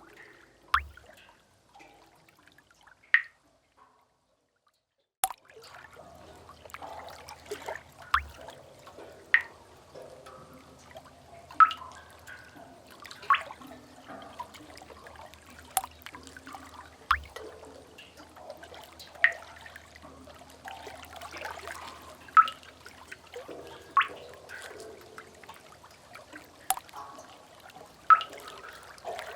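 Cave water drips: single drops plopping into water every second or two over a faint background of trickling water. The sound cuts to dead silence for about a second and a half around four seconds in.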